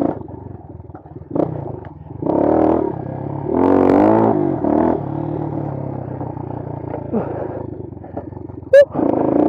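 Bashan Brozz 250 dual-sport motorcycle engine under way on a dirt trail, revving up and falling back in several surges as the throttle is worked. A sharp knock comes near the end.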